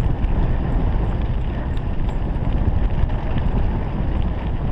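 Steady rumbling noise of movement along a dirt trail, with wind buffeting the microphone, while the handler is pulled along behind a racing dog.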